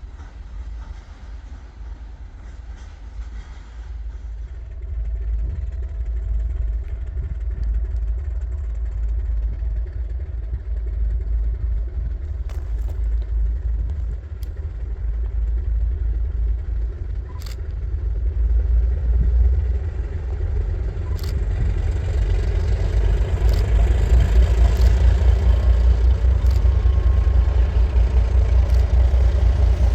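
Train rumbling and growing steadily louder as it draws nearer, with a heavy low rumble throughout and a few sharp clicks in the second half.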